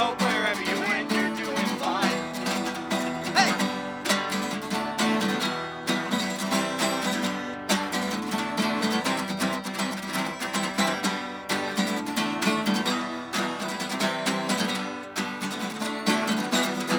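Acoustic guitar strummed in steady chords: the instrumental close of a live song.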